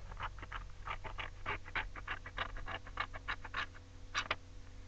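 Scissors cutting through folded paper: a quick series of short crisp snips, about four or five a second.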